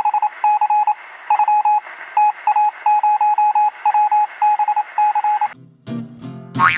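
An electronic beep tone keyed on and off in a rapid pattern of short and long beeps, like Morse code, with a thin, narrow sound as if heard over a radio or phone line. It stops about five and a half seconds in and acoustic guitar music begins.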